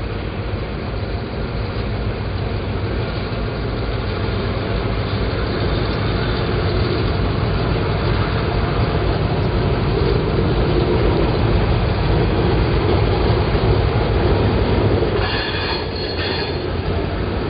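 Freight train passing: diesel locomotives rumbling by, then loaded hopper cars rolling past on the rails, growing louder. A brief high squeal of wheels on the rail near the end.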